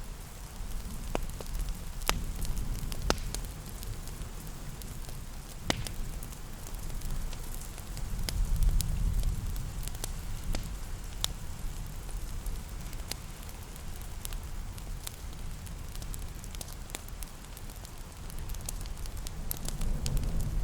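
Wood fire crackling, with irregular sharp pops and snaps over a low, rumbling fire sound that swells and eases every few seconds. Steady rain patters underneath.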